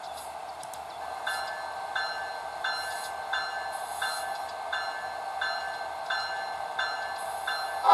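A long train rolling by, a steady hiss of wheels on rail, with a grade-crossing bell ringing about one and a half strokes a second from about a second in.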